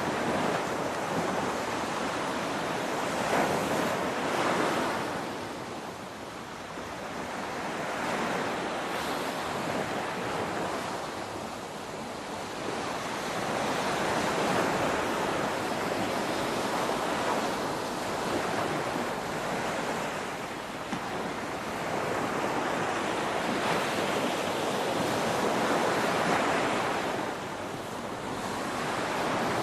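Ocean waves breaking on a beach: a continuous rush of surf that swells and fades every few seconds, with no lull between breakers.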